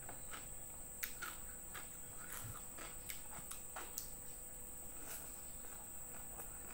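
Mouth sounds of eating by hand close to the microphone: irregular short wet clicks and smacks while chewing boiled cassava leaves and rice.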